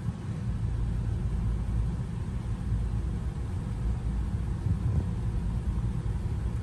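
Steady low rumble of an idling car engine, with no change in pitch.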